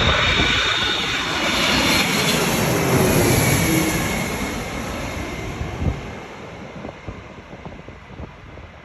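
Jet engines of a Boeing 767 running loud with a faint high whine, the noise steadily dying away, with a short knock about six seconds in.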